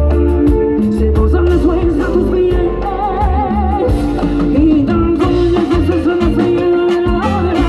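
Live Latin band music: a lead singer holds long notes with a wide vibrato over bass and drums.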